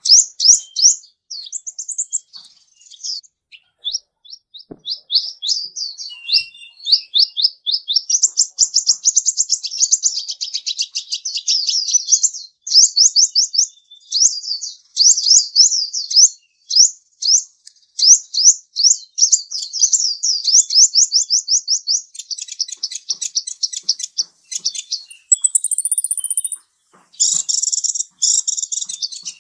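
A small bird chirping continuously in fast runs of short, downward-sweeping notes, with a brief higher whistle near the end followed by denser chatter.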